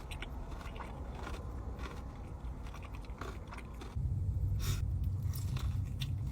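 Close-up biting and chewing of a breaded fried chicken tender, with short crunches and wet mouth sounds. About four seconds in, a steady low hum suddenly becomes louder under the chewing.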